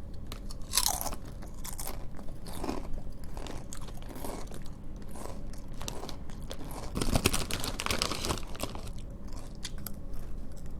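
A person chewing SunChips multigrain chips, with irregular crisp crunches.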